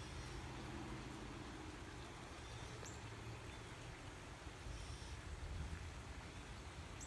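Steady rain hiss with a low rumble of distant thunder underneath, swelling slightly in the second half.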